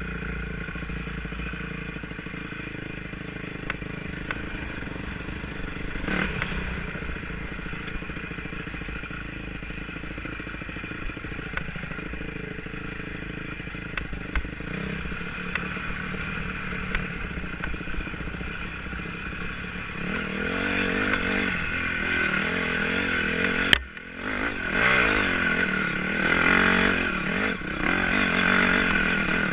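Enduro motorcycle engine running at low revs with scattered knocks and rattles. In the last third it revs up and down harder, with a sudden brief drop near three-quarters of the way through.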